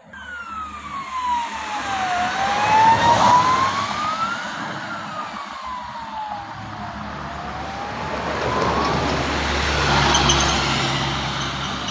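A siren wailing, its pitch sliding slowly down and up about every two to three seconds, over the engine rumble of road traffic. The rumble grows louder near the end as a vehicle passes close.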